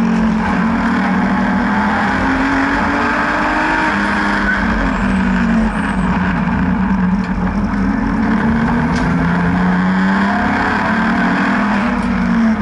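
BMW N52B30 3.0-litre naturally aspirated straight-six in an E36 race car, driven hard on track, its revs rising and falling repeatedly, with a brief dip in the engine sound about halfway.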